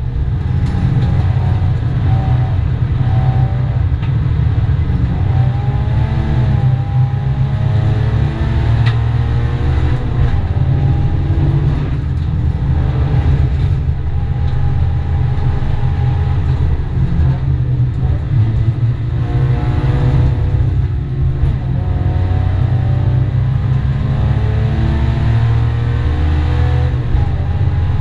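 Toyota GT86 Cup race car's 2.0-litre flat-four engine working hard, heard from inside the cabin. Its note climbs through each gear and drops back at the upshifts, several times over, above a heavy low rumble.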